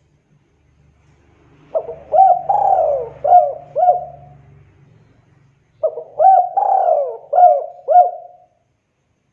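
Spotted dove (tekukur) cooing: two song phrases of about five notes each, the first beginning about two seconds in and the second about four seconds later.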